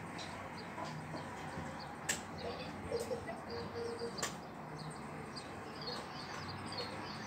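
Small birds chirping faintly, with a few sharp clicks about two, three and four seconds in.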